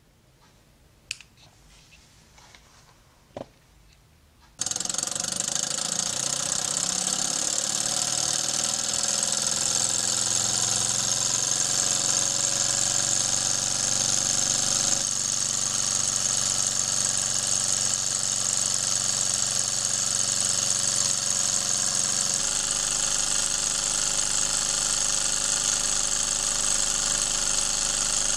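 Model alpha-type Stirling engine running: after a few faint clicks, a steady mechanical running sound with a strong high hiss starts abruptly about four seconds in. Its pitch climbs for a few seconds as it speeds up, then holds steady.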